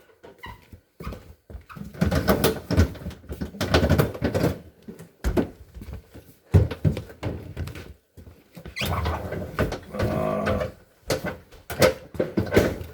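Refrigerator shelves and drawers being pulled out and set down: irregular clattering knocks, thunks and scraping of plastic and glass parts.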